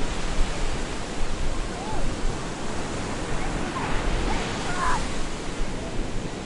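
Stormy surf breaking on a beach: a steady rushing wash of waves, swelling a little about four seconds in.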